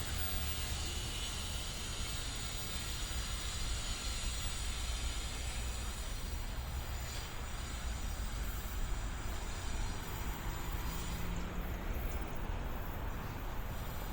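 An NJ Transit train running, a steady low rumble with an even hiss over it.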